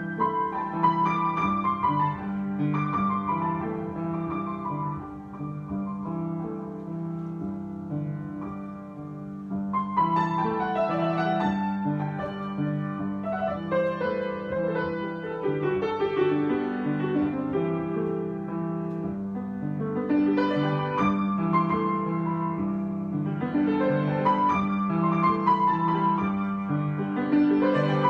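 Solo piano improvisation: a repeating low figure in the left hand under a right-hand melody, with a falling run of notes about halfway through.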